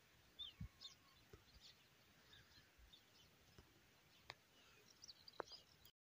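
Near silence, with faint, scattered bird chirps and a few soft clicks.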